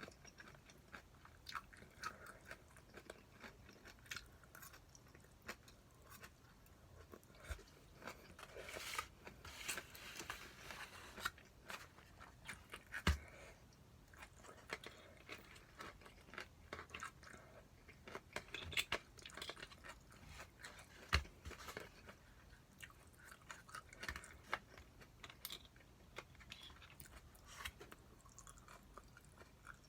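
A person eating, close to the microphone: steady chewing with crunchy bites, and a couple of sharp knocks, one about a third of the way in and one about two-thirds in.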